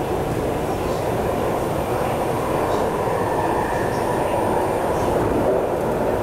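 MTR SP1900 electric multiple-unit train running along the line, heard inside the passenger car: a steady rumble of the moving train.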